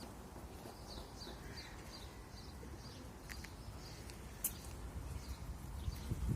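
A small songbird chirping: a run of short, high, falling chirps, about three a second, over a steady low background rumble.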